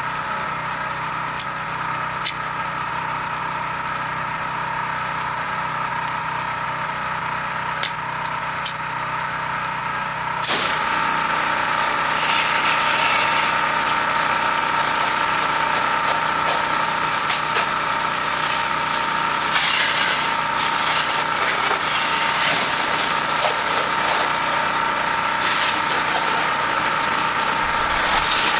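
Pressure washer running steadily with a constant hum. About ten seconds in, the spray wand opens up and a loud, steady hiss of the water jet joins it and keeps on.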